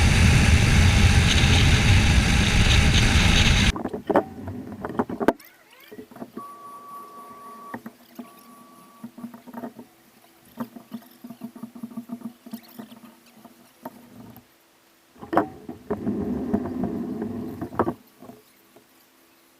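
Motorcycle riding noise, mostly wind rush over the engine, that cuts off suddenly about four seconds in. Scattered clicks and knocks follow, with a short beep twice, and another rush of noise a few seconds before the end.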